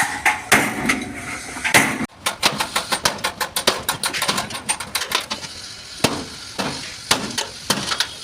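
Hammer striking a Tata truck cab's sheet-metal panel in dent repair: a few heavy ringing blows, then from about two seconds in a quick run of lighter taps, several a second.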